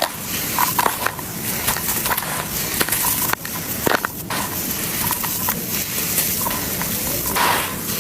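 Gritty brown cement chunks being crumbled by hand, a continuous crunching and crackling with scattered sharp cracks.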